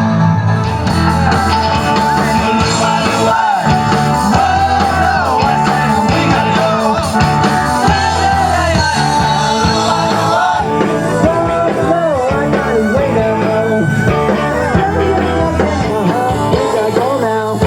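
Live rock-and-roll band playing an oldies cover song, loud and continuous.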